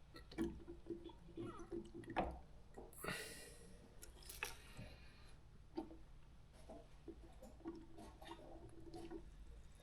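Brake master cylinder being bench bled: faint squishing and gurgling as the piston is pushed in slowly and brake fluid carrying air bubbles cycles through the bleeder tubes back into the reservoir, with a few small clicks.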